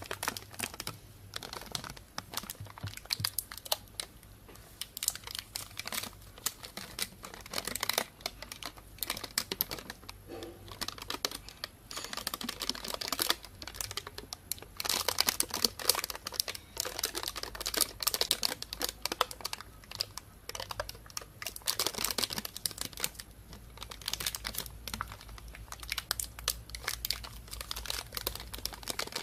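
Plastic bag crinkling and rustling in dense, irregular crackles, with louder handled patches several times.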